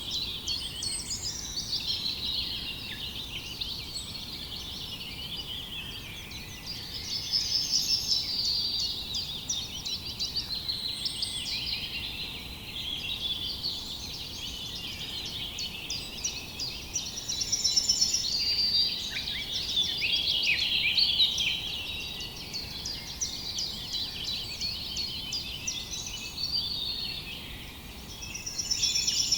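Many small birds chirping and singing at once, overlapping calls and trills with no pause, over a faint steady background hiss.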